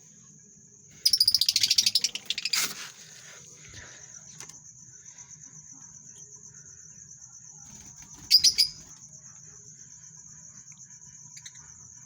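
Lovebirds chattering: a loud burst of rapid, shrill chirps about a second in, and a second short burst about two-thirds of the way through.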